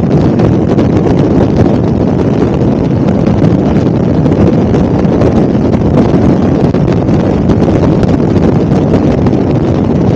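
Helicopter in flight heard from the passenger cabin: a loud, steady drone of engine and rotor noise, with wind buffeting the microphone.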